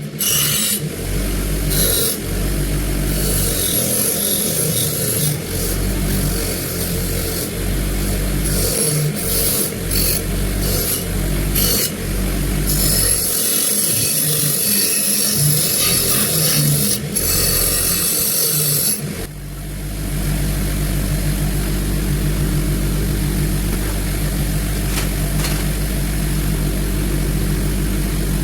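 Electric power tool running with a steady motor hum, its abrasive working the part in repeated bursts of hiss. About two-thirds of the way through the hiss stops and the motor runs on steadily.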